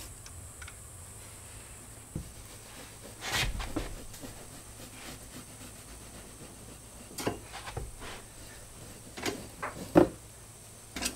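Fiberglass batt insulation being handled and fitted into a wall stud bay: a soft rustle a few seconds in, then scattered knocks and taps, the loudest near the end.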